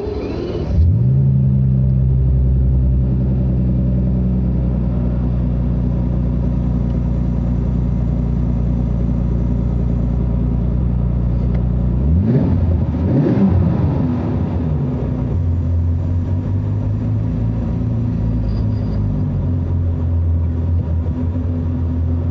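Bentley Continental Supersports' twin-turbo W12 engine on a cold start: it catches within the first second, and its pitch rises into a fast, steady cold idle. About halfway through, the engine speed rises and falls briefly, then it settles into a lower, steady idle.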